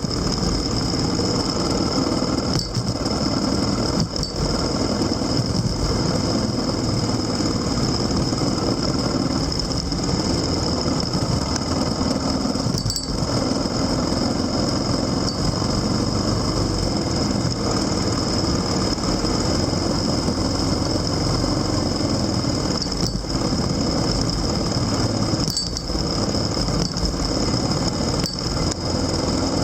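Vehicle engine running steadily with road and wind noise while under way, with a few brief dips in level.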